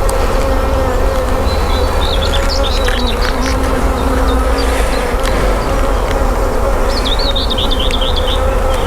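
Honeybees buzzing steadily in a dense hum around an open hive.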